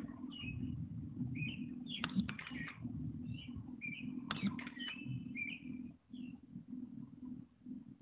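Small birds chirping: short, repeated hooked chirps from several birds over a low steady hum, with two sharp clicks about two and four and a half seconds in.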